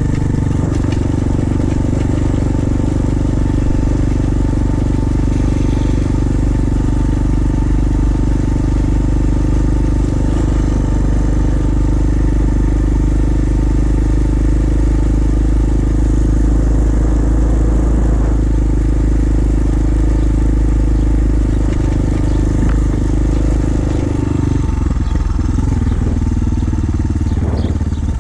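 Small pit-bike engine running steadily at cruising speed, with heavy wind rumble on the microphone. Its note drops and wavers near the end as the bike slows.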